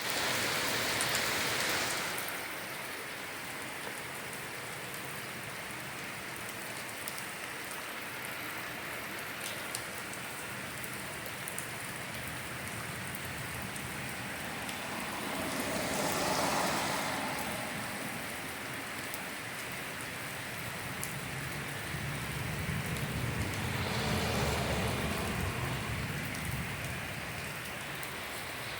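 Torrential rain pouring down steadily in a heavy downpour. It swells louder about halfway through and again near the end, and the second swell carries a deeper rumble.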